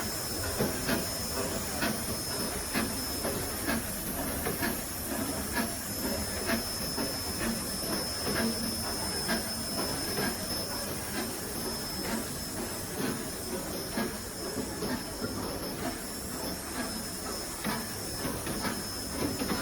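Factory machinery for making abrasive belts running steadily with a hiss and a high whine, with a short click repeating about once a second.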